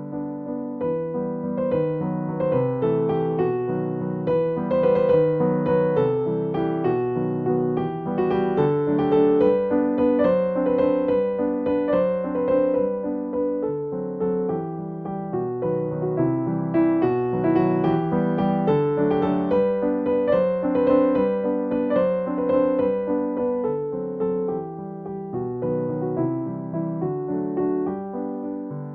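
Background music played on a piano or electric piano: a gentle melody over chords.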